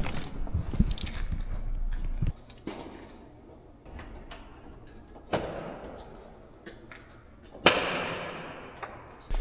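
Low wind rumble for the first two seconds, then two sudden slams, the second the louder, each fading away over about a second: a door being shut.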